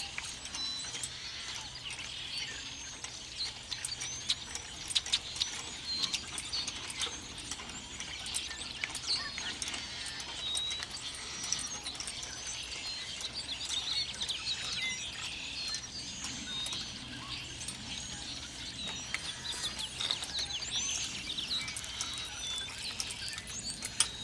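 Many small birds chirping and twittering all through, with scattered sharp clicks, a few louder ones about five seconds in.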